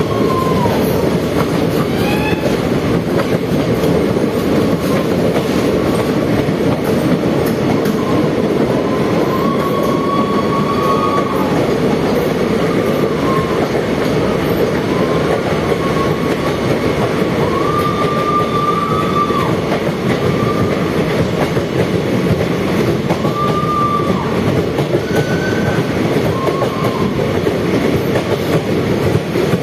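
Train running along the track with a steady loud noise of wheels on rails. A high wheel squeal comes and goes several times, each lasting a second or two, typical of wheel flanges grinding on curves.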